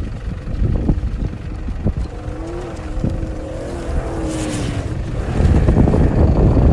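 Engine of a Dakar Rally competition vehicle, with a wavering engine note about halfway through and a brief hiss, then a louder, rougher rumble from about five seconds in as it draws close.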